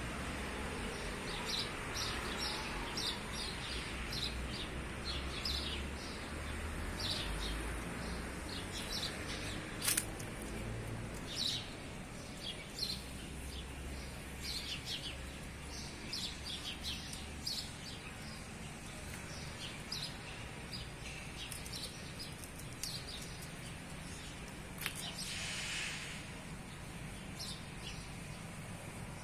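Small birds chirping in many short, high notes over a steady low hum of city background noise, with a single sharp click about ten seconds in.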